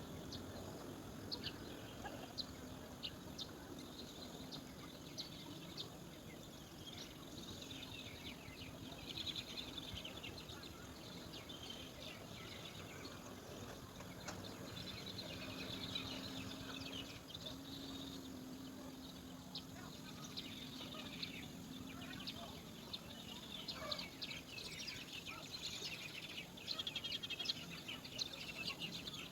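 Birds chirping: many short, high calls in clusters, busiest near the end. A faint low hum runs under them in the middle.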